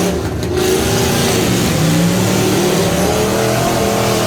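Half-ton pickup truck engine running hard at high revs, with a brief drop just after the start and its pitch climbing over the last couple of seconds.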